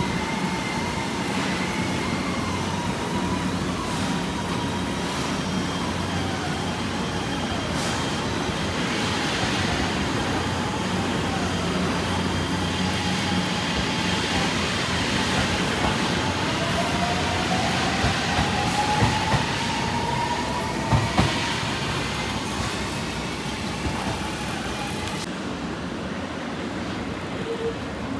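JR Shikoku 7200 series electric train running, a steady rumble of wheels on rail with faint whining tones. A whine rises in pitch about two-thirds of the way through, and there are a couple of sharp knocks soon after.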